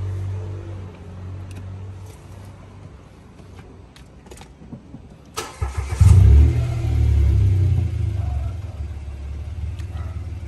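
Mitsubishi Mirage's three-cylinder engine being started: a few light clicks, then a sharp click, a short crank, and the engine catches about halfway through with a brief rev before settling into a steady idle.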